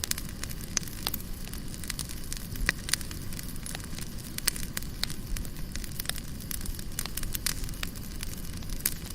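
Wood fire burning in an open fireplace: a steady low rumble of flame with frequent irregular crackles and sharp pops.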